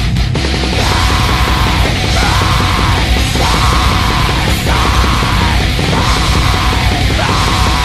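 Loud experimental black metal: dense distorted guitars and drums, with a harsh yelled vocal over a figure that repeats about once a second.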